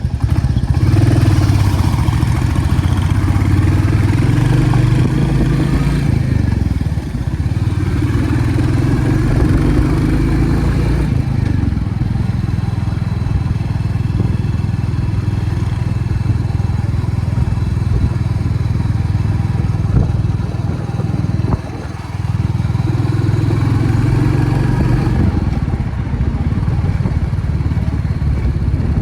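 Royal Enfield Classic Reborn single-cylinder motorcycle engine running, its exhaust note rising and easing off in turn as the throttle opens and closes.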